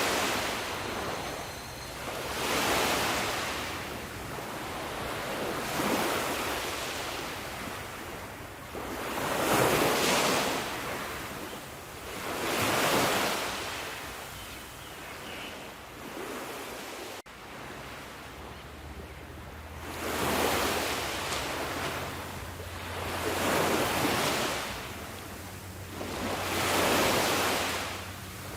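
Ocean waves breaking on a shore in repeated surges, one roughly every three seconds, each swelling and washing back. There is a quieter lull with a brief sudden break in the sound a little past the middle.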